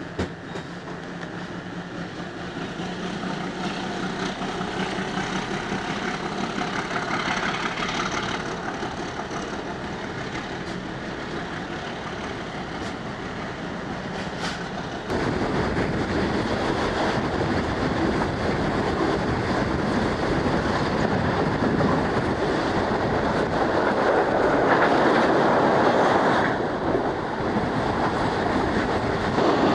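Passenger train running on the rails, heard from an open carriage window: the wheels clatter over the track and the noise builds as the train picks up speed leaving a station. About halfway through it grows suddenly louder and stays that way.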